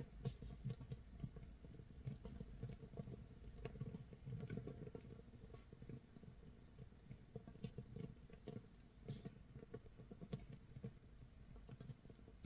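Makgeolli starter mash fermenting in a jar, 24 hours in: a faint, dense, irregular crackle of tiny pops and fizzing, as gas bubbles burst at the surface of the mash. It sounds like light rain or crackling firewood.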